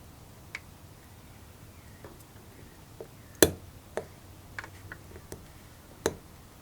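Irregular sharp clicks and taps of small metal parts and tools being handled during carburetor work, about nine in all, the loudest about three and a half seconds in.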